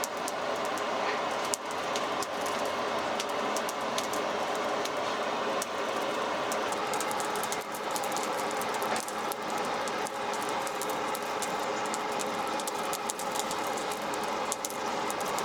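Power tool abrading the rusted steel of a machete blade: a steady gritty rasp with many sharp crackling ticks, starting and stopping abruptly.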